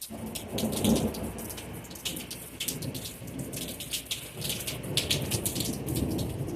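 Thunderstorm: rain falling with many sharp drops pattering on a surface, over a low rumble of thunder that swells to its loudest about a second in.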